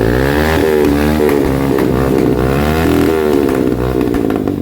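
Single-cylinder motorcycle with a newly fitted aftermarket 'fire' exhaust, revved in repeated blips with its pitch rising and falling several times.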